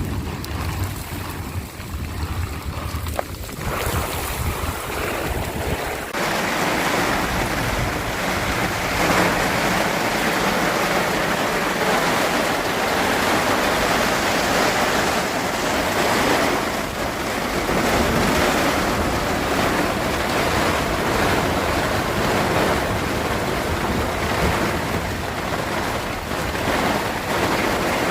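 Steady rushing storm noise, with low wind buffeting on the microphone for the first few seconds. About six seconds in it grows louder and stays even.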